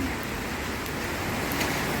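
Heavy thunderstorm rain falling in a steady downpour.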